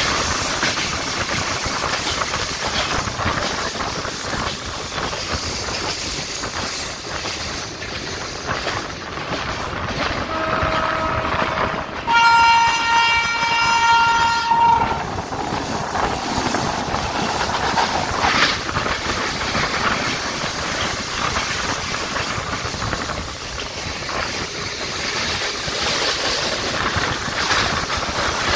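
Passenger train running, steady wheel-on-rail and wind noise heard from an open coach doorway. About ten seconds in a brief lower horn note sounds, then a loud, higher locomotive horn blast lasts about three seconds.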